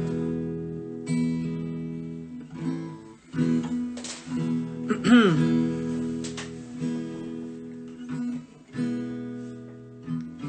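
Acoustic guitar strumming chords in an instrumental passage of a song, with a short sliding vocal note about halfway through.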